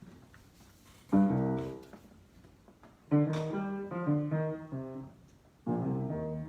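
Solo instrumental improvisation: chords struck sharply and left to ring and fade. There are three groups, about a second in, about three seconds in with several notes following one another, and a last chord near the end.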